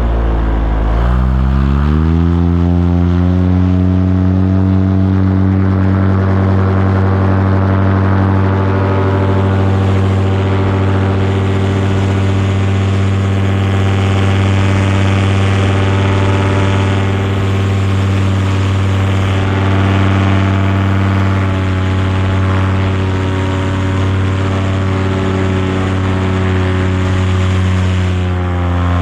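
Small aircraft engine and propeller revving up over the first two or three seconds, then running steadily at the higher speed, with a slight drop in pitch near the end.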